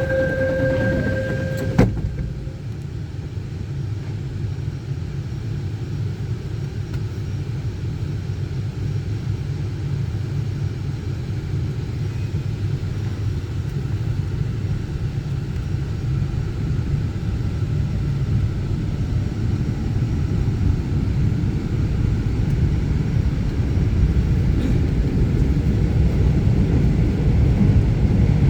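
Line 4 subway train pulling away from a station: a steady low running rumble that grows slowly louder as it gains speed. A brief steady tone and a sharp click come in the first two seconds.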